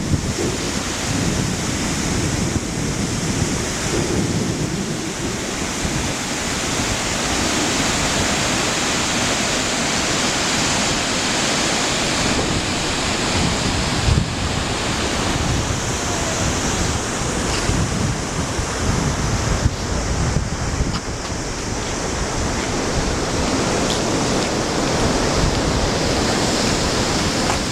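Steady roar of Kegon Falls, a tall plunge waterfall, its water crashing into the pool below, with wind buffeting the microphone in a low flutter.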